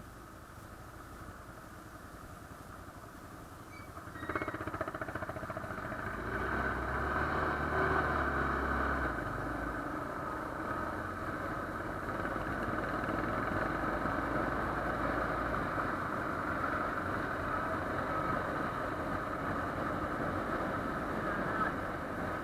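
Motorcycle engine running on the road, getting suddenly louder about four seconds in and then staying steady.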